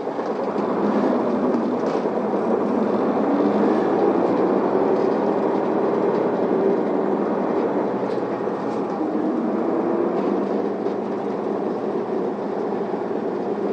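Interior running noise of an Isuzu Elga diesel city bus, engine and road noise steady as it pulls in to a stop.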